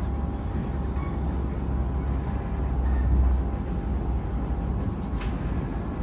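Low rumble of a train at a railway station platform with a faint steady hum, swelling briefly around the middle; a single sharp click about five seconds in.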